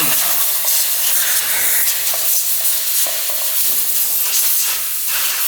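A pressurised jet hissing steadily and loudly.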